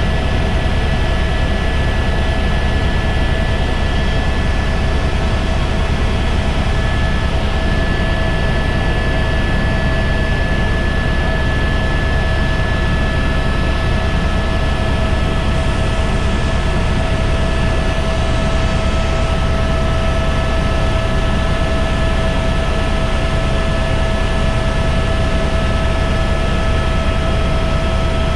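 Helicopter in steady flight, heard from inside the cabin: a loud, constant deep drone with several steady whining tones above it.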